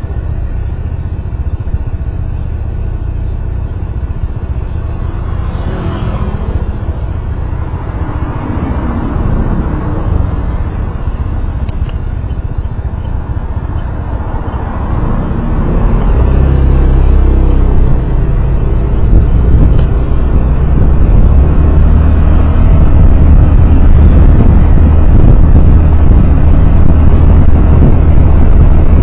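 Road vehicle on the move: engine and tyre and road noise with a heavy low rumble, growing louder about halfway through, with a few rising and falling engine-pitch sweeps.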